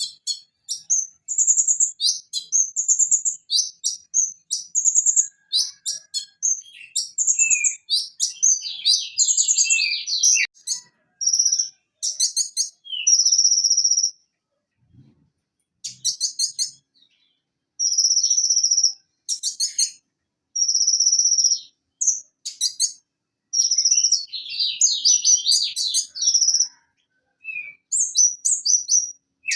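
Purple-throated sunbird (konin) singing: fast, high-pitched chirps and trills in phrases of a second or two with short gaps between them, and a pause of about two seconds near the middle.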